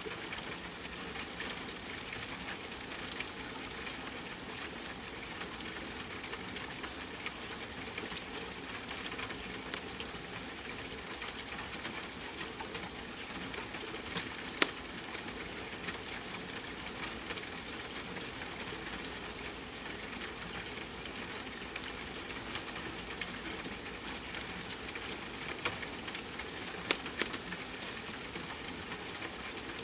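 Steady rain hiss mixed with a crackling wood fire, with a few sharper pops from the fire, one about halfway and two near the end.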